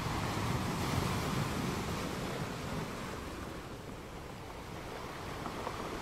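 Steady rushing noise of wind and sea picked up by an outdoor harbour-side webcam microphone, a little louder in the first couple of seconds and easing off after.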